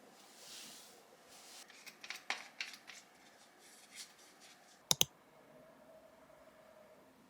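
A few light clicks and taps, then two sharp clicks in quick succession about five seconds in: small objects being handled in a small room.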